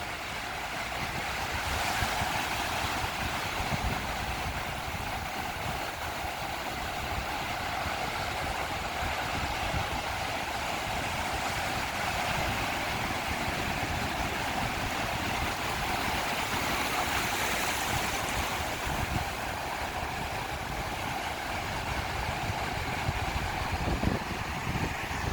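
Ocean surf washing steadily onto the beach, swelling as waves break about two seconds in and again around two-thirds through, with wind buffeting the microphone.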